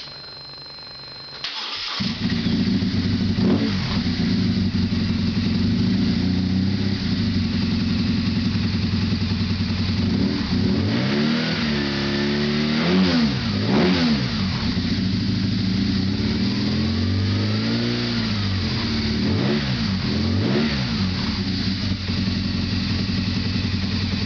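2006 BMW R1200S boxer twin breathing through an Akrapovic exhaust with no catalytic converter: it is started about a second and a half in, settles to idle, and is blipped up and down several times around the middle and again later.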